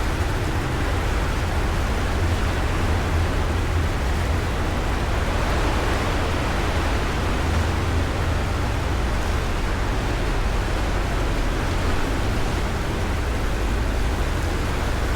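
Steady rushing noise with a constant deep rumble underneath: wind and water noise aboard a small motorboat under way.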